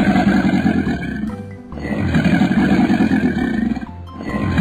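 An animal roar sound effect, a long rough growling roar played twice with a short break in between, over background music.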